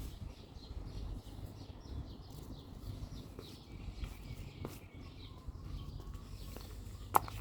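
Small birds chirping, a run of quick repeated chirps in the first half that thins out later, over a steady low rumble. A single sharp click near the end.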